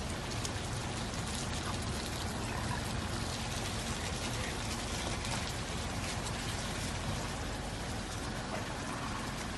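Steady patter of rain, many small drops, heard from inside a car over a low steady rumble.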